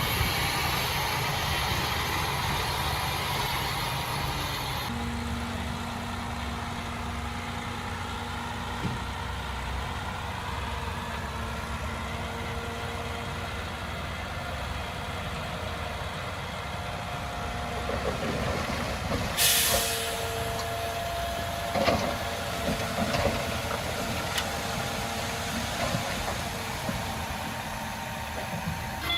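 Heavy diesel construction machinery running steadily, with a short, sharp hiss of air partway through, like an air brake releasing.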